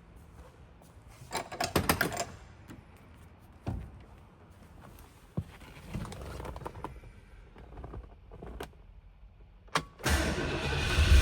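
Scattered clicks and knocks, with a brief rattling clatter about two seconds in, then about ten seconds in the 1966 Lincoln Continental's V8 fires on a cold start and runs on with a loud, deep rumble.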